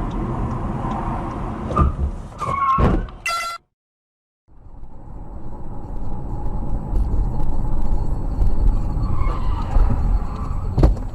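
Car audio of driving on a road: a steady rumble of engine and tyres, broken by a few sharp knocks and brief pitched tones about two to three seconds in. The sound drops out completely for about a second, then the rumble returns and one sharp bang comes near the end.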